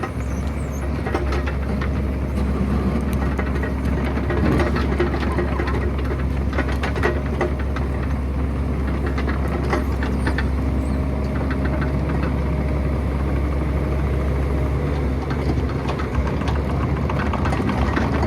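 Excavator's diesel engine running steadily under load, with scattered metallic clanks and scrapes of the machine working on rock.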